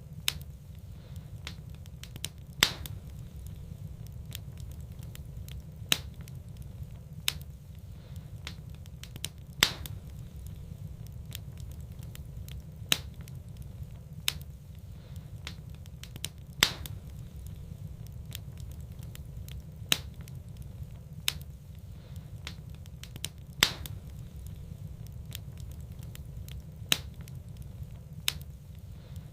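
Wood fire burning in a fireplace, with sharp crackles and pops of the burning wood every second or few at irregular intervals over a steady low rumble.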